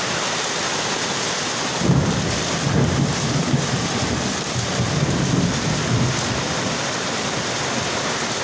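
Heavy downpour of rain and hail hissing steadily. A low rumble swells and fades from about two seconds in to about six seconds in.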